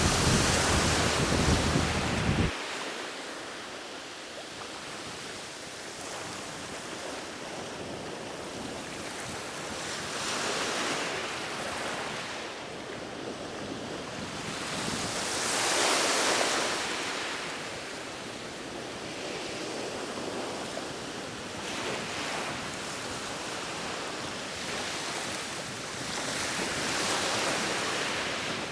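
Sea waves breaking and washing on a shore, a steady rush that swells and falls back every several seconds, with the biggest surges near the start, about a third of the way in, and near the end. A heavy low rumble under the first couple of seconds cuts off suddenly.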